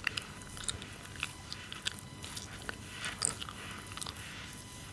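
Chewing gum close to the microphone: irregular moist clicks and snaps of the mouth and gum.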